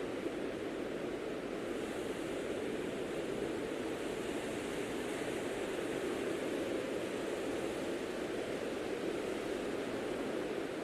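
Blizzard wind blowing steadily as an even, deep rushing noise, with a faint higher hiss that swells a little in the middle.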